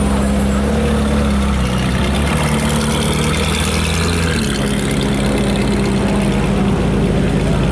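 Ferrari 458 Speciale's naturally aspirated V8, breathing through an aftermarket Fi Exhaust, idling steadily. Its note shifts slightly a couple of times.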